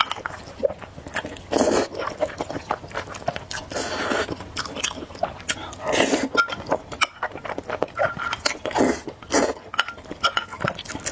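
Close-miked eating of spicy noodles: wet chewing and mouth smacking with many small clicks, broken by a few longer slurps.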